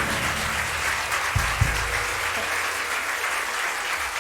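Audience applauding at the end of a live performance, with two brief low thumps about a second and a half in.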